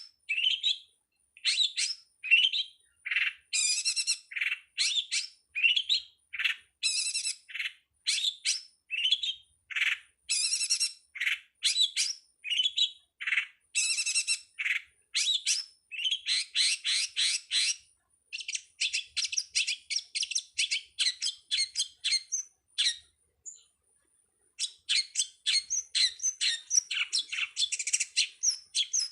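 Long-tailed shrike (pentet) calling: runs of rapid, harsh chattering notes with short gaps, and a pause of about a second and a half near the end.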